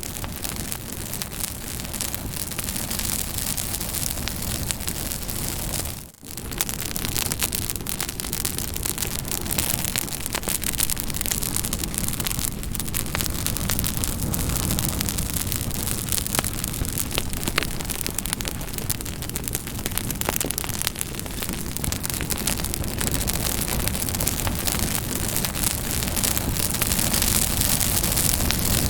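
Campfire crackling steadily: a dense hiss of burning wood with many small sharp pops, its level dropping out briefly about six seconds in.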